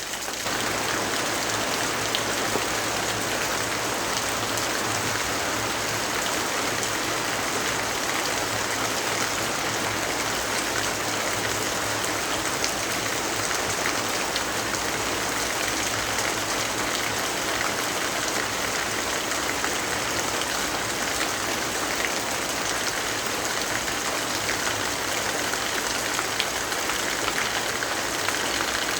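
Steady, dense rainfall: an even hiss with many small drops ticking on surfaces. It steps up a little in level just after it begins.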